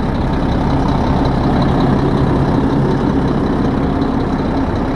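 2001 Mack CXU truck's diesel engine idling steadily with an even low hum.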